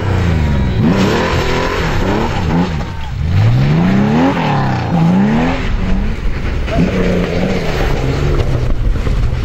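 Rally car engine revving hard through the gears, its pitch climbing and then dropping at each gearchange, several times over; it settles to a steadier, lower note for the last few seconds.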